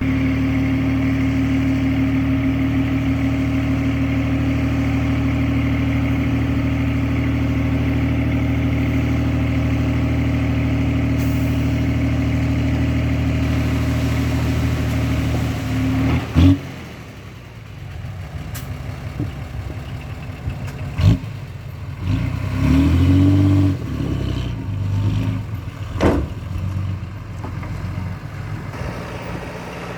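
Heavy machine's diesel engine running steadily, then a loud bang about halfway through, after which the engine runs quieter with a few separate metal knocks and a brief rev.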